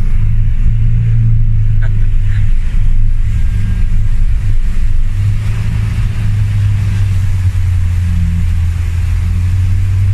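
Vehicle engine running with a steady low drone, heard from inside the cabin while driving through deep floodwater, with water and rain splashing against the windshield and body.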